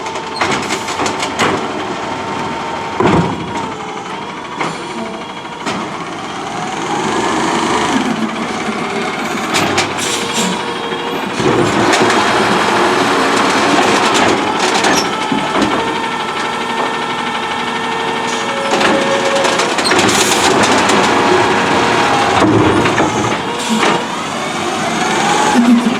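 CNG Autocar ACX automated side-loader garbage truck working: the engine runs under a whine that rises and falls, with repeated knocks and clanks, getting louder in the second half.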